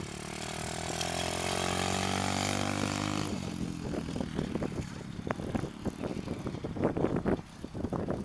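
125cc pit bike engine revving up under throttle, its pitch climbing for about three seconds before dropping away suddenly. Irregular crackles and thumps follow.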